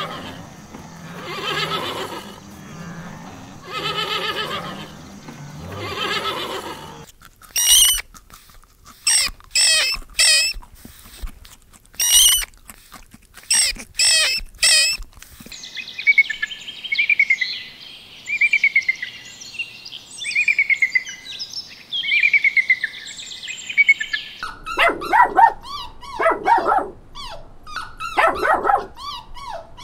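A run of animal calls. For the first seven seconds long, wavering pitched calls repeat about every two seconds. These are followed by sharp high squeaks from otters, then a stretch of bird-like twittering, and near the end a small dog's yelps and whines.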